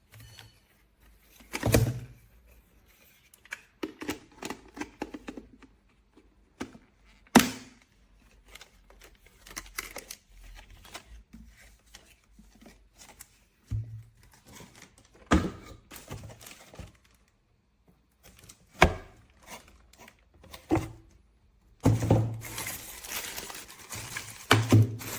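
Handling noise from a cordless handheld vacuum that has been switched off: scattered knocks, clicks and thumps of its plastic parts, with a stretch of rustling near the end.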